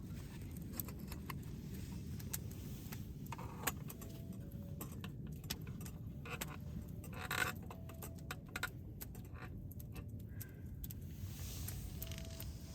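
Irregular light metallic clinks and jingles, a few of them briefly ringing, over a steady low rumble.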